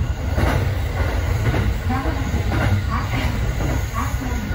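Running noise heard inside a JR East E233-series electric train car under way: a steady low rumble of wheels on rail, with faint voices over it.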